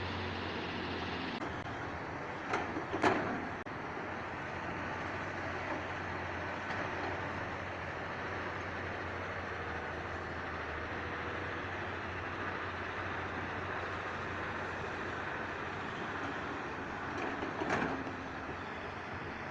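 Excavator's diesel engine running steadily during earthmoving. There are two sharp knocks about three seconds in and another near the end.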